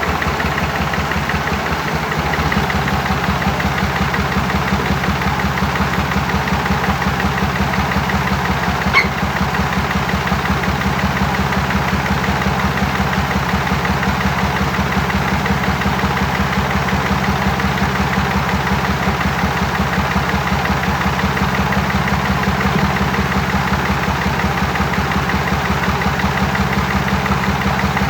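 An engine idling steadily with an even, rapid knocking beat. There is one sharp click about nine seconds in.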